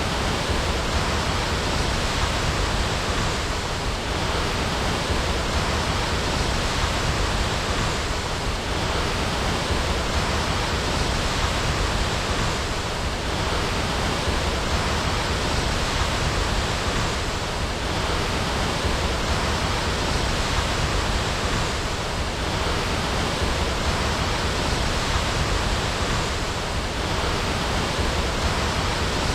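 Waterfall: water falling and rushing in a steady, even roar-free wash of noise that does not change.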